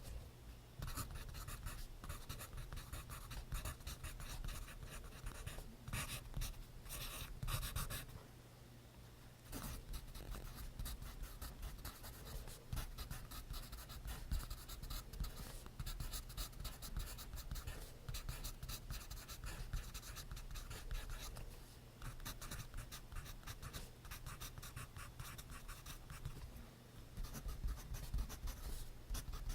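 Pencil writing on notebook paper: a steady run of small scratching strokes, with a brief pause about eight seconds in.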